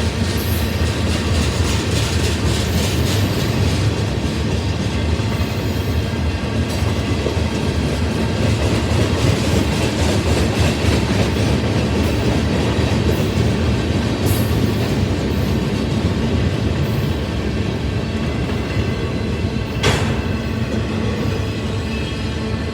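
Freight train cars rolling past with a steady rumble, the wheels clacking over rail joints in a regular rhythm at the start. A single sharp bang sounds near the end.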